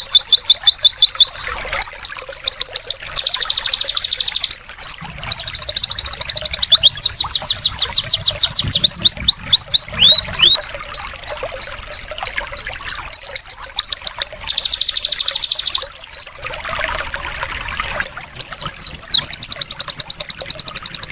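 White-eye (pleci) singing an energetic song of rapid high trills, runs of quick sweeping notes at about ten a second broken by short pauses and sharp upslurred calls. Water trickles underneath.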